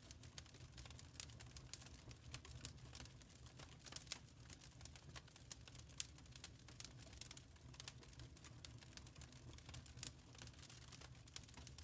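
Faint crackling wood fire in a fireplace: irregular small pops and snaps over a steady low rumble.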